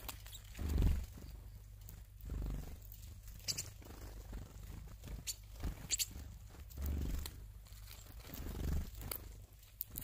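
Tits at a bird feeder: scattered sharp taps of pecking and landing, with a few dull low thumps in between.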